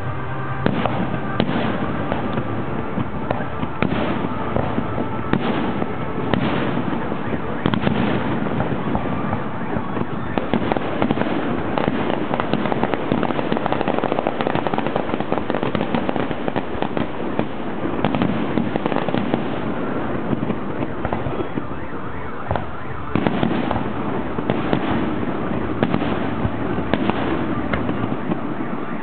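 Fireworks display: a continuous run of bangs and crackling, with sharper reports about every second and a denser stretch of crackle in the middle.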